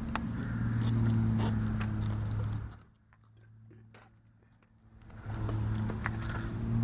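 Aircraft engine running with a steady low drone. It drops away for about two seconds in the middle, then comes back.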